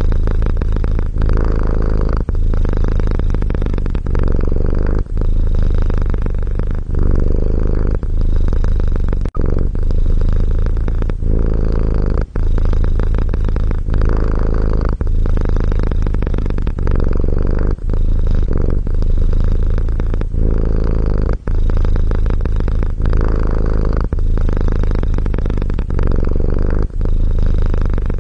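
Domestic cat purring steadily and close up, in an even rhythm broken by a short dip at each breath, roughly every one and a half to two seconds.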